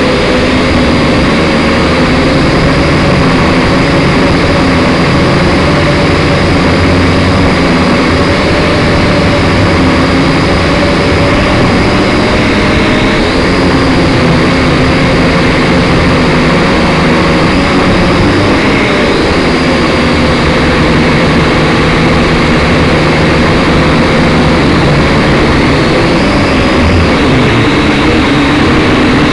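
Syma X5SC quadcopter's motors and propellers heard up close through its onboard camera: a loud, steady whine whose several pitches waver slightly as the throttle changes.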